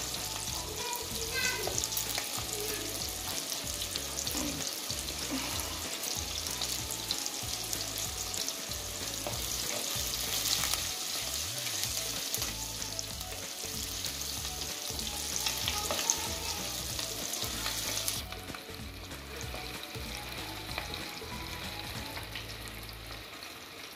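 Chopped small onions, garlic and curry leaves frying in oil in a clay pot, a steady crackling sizzle, with a wooden spatula stirring and scraping the pot. The sizzle turns much quieter about three-quarters of the way through.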